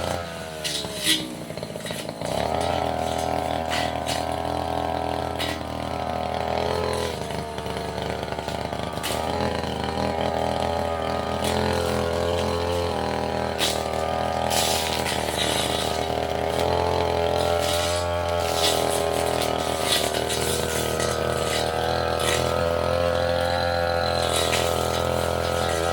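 Tasco brush cutter engine running at high revs. The engine drops in speed near the start, picks back up after about two seconds, then runs on with small rises and dips and scattered sharp ticks.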